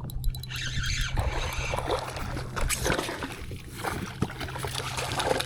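Water splashing and sloshing at the side of a kayak as a hooked sea trout is fought in, with scattered light knocks.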